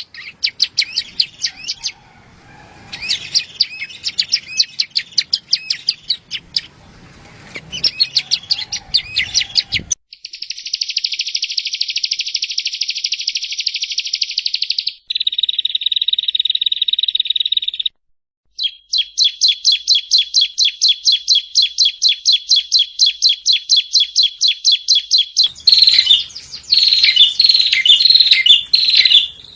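Yellow-bellied prinia (prenjak rowo) song, high-pitched throughout. It opens with bursts of quick chirps, then a dense buzzy trill about ten seconds in, a steadier trill, a long run of rapid repeated notes at about five a second, and louder chirps near the end. Each section starts and stops abruptly.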